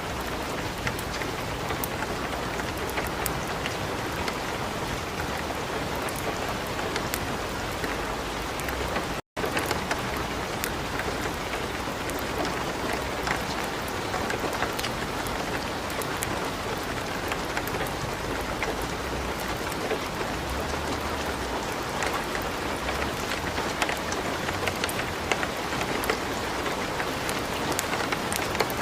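Light rain falling steadily, mixed with a wood fire crackling and popping in a fireplace, the sharp pops scattered throughout. The sound cuts out completely for a split second about nine seconds in.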